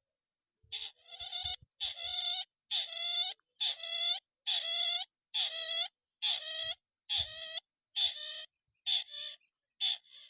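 Calls of a tikusan crake, a rail of the rice fields: harsh, slightly falling notes repeated about once a second, a dozen in a row, the last few shorter. A faint steady high whine runs under them, with a few low thumps of handling.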